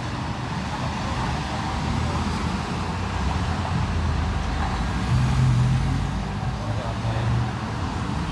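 Road traffic running steadily, with one vehicle's engine hum growing louder about five seconds in as it passes.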